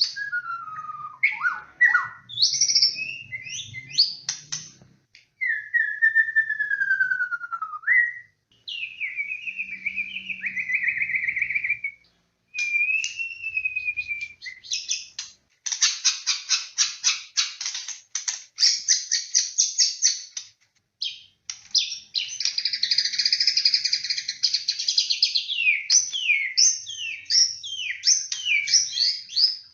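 White-rumped shama (murai batu) singing a loud, varied song: clear whistled phrases that slide up and down, a long falling whistle, a rapid rattling trill in the middle and a harsh buzzy stretch near the end. This is the kind of full, steady song that is played as a lure to get other shamas singing.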